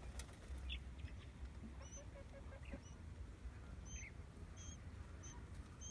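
Newly hatched quail chicks peeping: short, high cheeps repeating roughly every half second to second from about two seconds in, over a low rumble.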